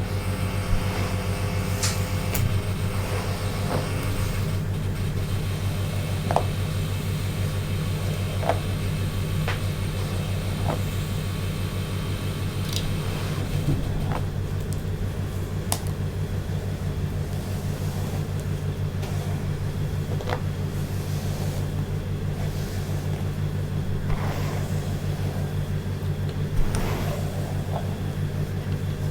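A steady low electric hum from a small motorized device, with scattered light taps and clicks over it.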